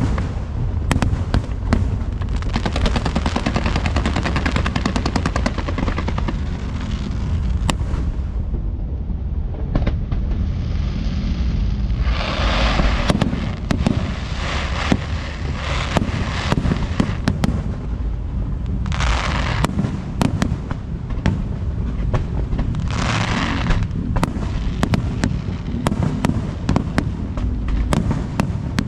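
Fireworks show: a dense run of bangs and crackles over a steady low booming. Three separate stretches of hissing crackle come partway through.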